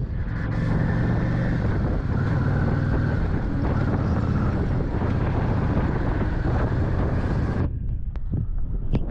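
Motorcycle engine droning under way with heavy wind rushing over the microphone. About three quarters of the way through the wind hiss drops away suddenly while the engine's low drone continues.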